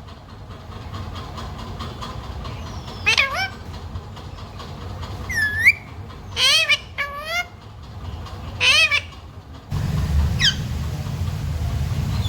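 A green parrot making about six short calls, several sliding up and down in pitch and one a rising whistle. A steady low hum comes in near the end.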